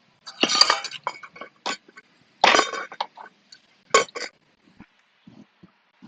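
Metal hand tools clinking and rattling as they are handled. Three louder clusters of clatter come about a second and a half apart, with lighter single clinks between them.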